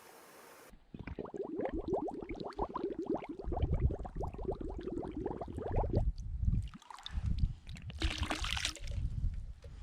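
Water gurgling and lapping in quick, uneven clicks over low knocking, with a short splashy rush about eight seconds in.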